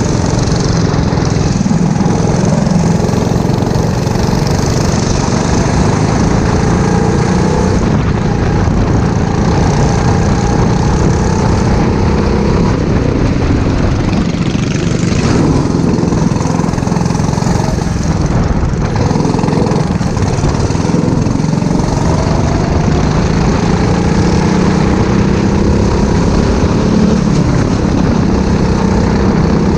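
Go-kart engine running at racing speed, its pitch climbing and dropping over and over as it revs up and eases off.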